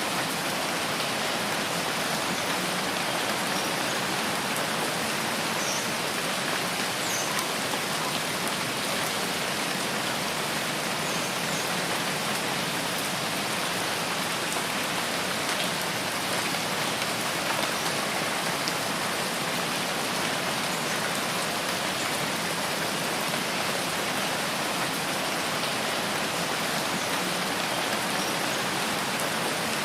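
Steady rain falling in a rain forest: an even, unbroken hiss. A few faint, very short high-pitched sounds stand out now and then.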